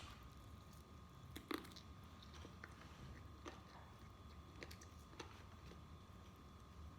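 A person quietly chewing and biting fried chicken, with a few soft mouth clicks and smacks, the sharpest about one and a half seconds in, over a faint steady hum.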